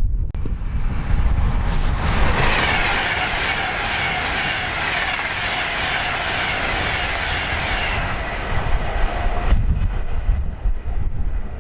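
A train passing on the line, its wheel and rail noise coming in sharply about two seconds in and dropping away near the end. Wind buffets the microphone throughout.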